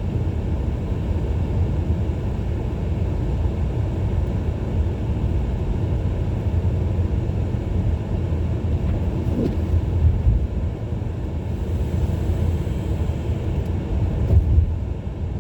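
Steady low rumble of a 2017 Ford Edge driving on a snowy road, its engine and tyre noise heard from inside the cabin.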